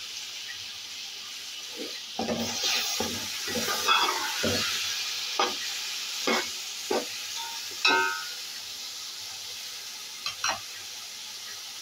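Chopped tomatoes and green chillies sizzling in hot oil and spices in a pot, stirred with a perforated metal spoon. The spoon scrapes and knocks against the pot irregularly over the steady sizzle, in a quick flurry about two seconds in and then single strokes every second or so.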